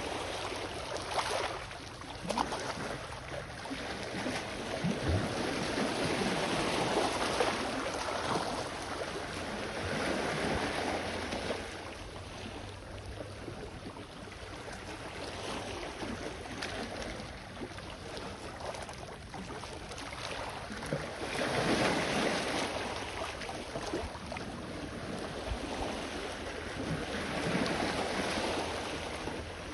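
Sea waves washing onto the shore, the hiss of the surf swelling and fading every few seconds, loudest about two-thirds of the way through.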